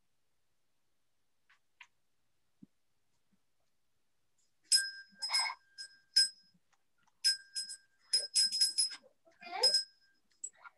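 A small metal bell rung in sharp strikes, a few spaced ones about halfway through and then a quick cluster, each ringing on the same few high tones; a short pitched call sounds among the last strikes.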